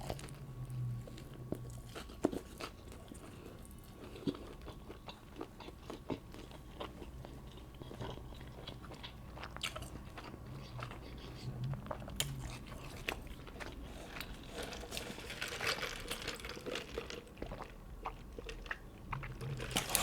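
A person chewing and biting into a Subway sandwich, with irregular soft crunches and wet mouth clicks.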